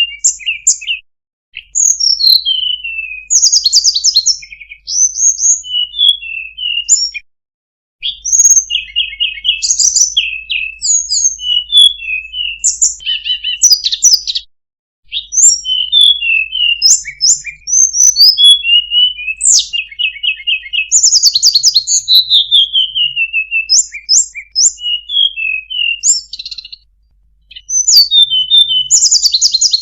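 Tledekan gunung (Sunda robin) singing a continuous, varied song of clear high whistles, quick repeated notes, trills and long falling slurs, broken by a few short pauses.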